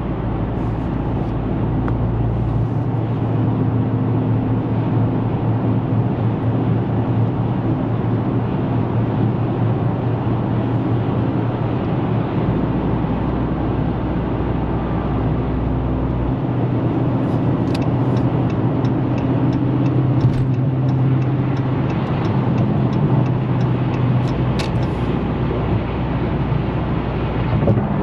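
Dodge Charger Scat Pack's 392 (6.4-litre) HEMI V8 cruising steadily at highway speed, heard from inside the cabin with tyre and road noise. In the second half come light ticks, about two a second, for several seconds.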